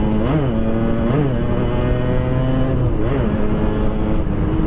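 Yamaha RX-King 135cc two-stroke single running through an aftermarket PDK exhaust at a steady pitch, with three quick throttle blips that briefly raise and drop the engine note.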